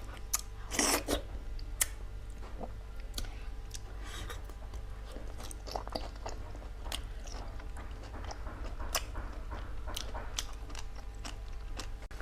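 Close-up sounds of a person chewing and biting food, with irregular sharp crunches and clicks; a louder crunch comes about a second in. A steady low hum runs underneath.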